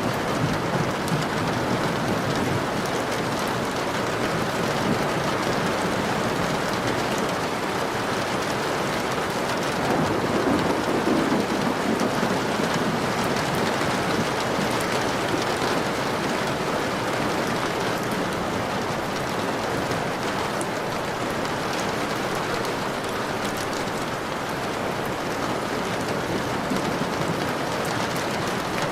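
Steady rain falling, with a low rumble of thunder swelling briefly about ten seconds in.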